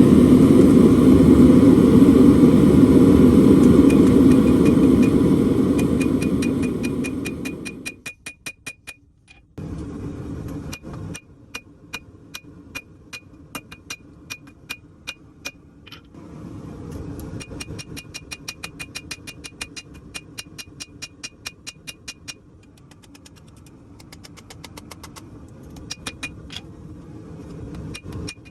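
Hammer blows ringing on an anvil, several a second in runs with short pauses, each strike carrying the same high ring. A loud steady roar, like a forge running, fills the first eight seconds and then cuts off, with a fainter rumble coming back later.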